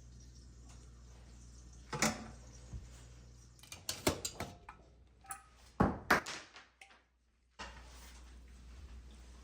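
A run of sharp clicks and knocks, a single one about two seconds in, then a cluster of several from about four to six seconds in, over a steady low hum. The hum drops out briefly after about seven seconds, then comes back.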